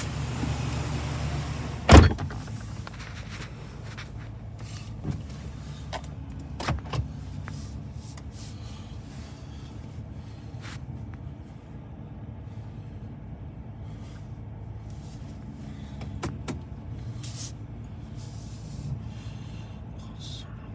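2015 GMC Sierra 3500HD pickup's engine running at a steady idle after a cold start. About two seconds in there is one loud, sharp thump, followed by scattered small clicks and knocks over the idle.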